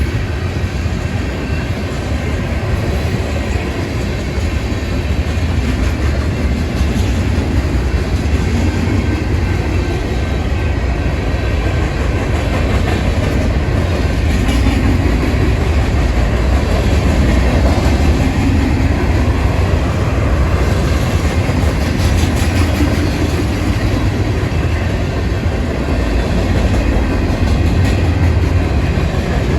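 Union Pacific freight train's cars rolling past, a steady low rumble of steel wheels on rail.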